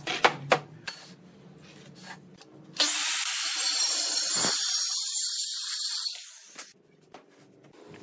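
Workshop tool sounds: a few sharp knocks, then a loud, steady high hiss that lasts about three seconds and stops.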